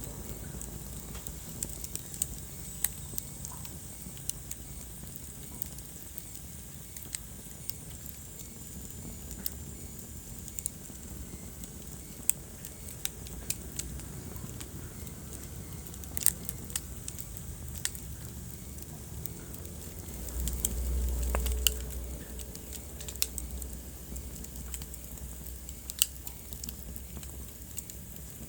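Wood fire crackling in a fireplace, with irregular sharp pops and snaps over a low rumble of the flames. About twenty seconds in the low rumble swells briefly louder, then settles.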